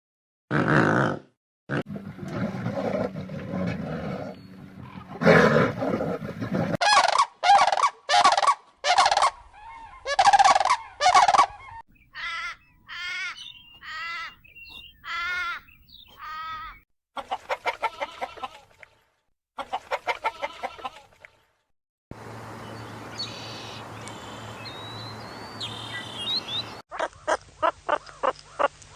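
A run of different farm animal calls cut one after another: low grunting calls, then repeated sharp calls and wavering drawn-out calls such as poultry make, then rapid pulsed calls. The calls change every few seconds, with a short stretch of steady background noise near the end.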